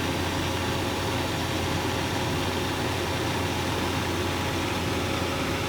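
Steady drone of a Rolls-Royce Allison turboprop on a Soloy-converted Cessna 206 in flight: an even rush of noise with a low hum and several steady tones, unchanging throughout.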